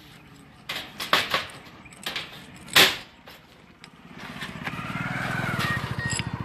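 A few sharp knocks, the loudest near the three-second mark, then a vehicle engine running with a rapid, even pulse that grows louder from about four seconds in.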